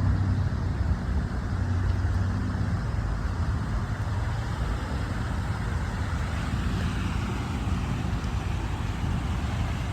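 Road traffic: a steady low engine hum, then a vehicle passing by with tyre noise that falls in pitch in the second half.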